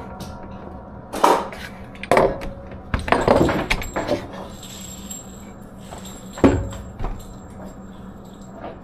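A few sharp bangs spread over several seconds, the strongest about a second in and again about six and a half seconds in, over a steady low hum.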